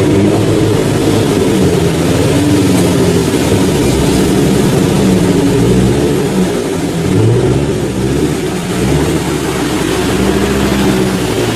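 An off-road 4x4's engine running under load, its revs rising and falling several times.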